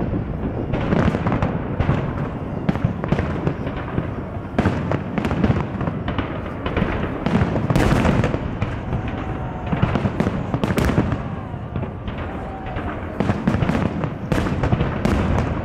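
Big fireworks display: aerial shells bursting in rapid, overlapping succession, sharp bangs and crackle over a continuous low rumble of explosions.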